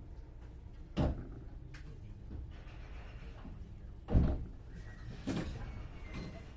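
Three thuds as the doors of a 521-series electric train close and shut, the loudest about four seconds in, over the low steady hum of the stopped train.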